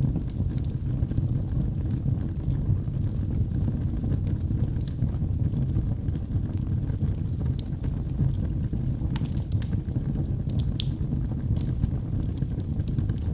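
Wood fire burning in a fireplace: a steady low rumble of flames with scattered sharp crackles and pops from the burning wood, a few louder pops in the second half.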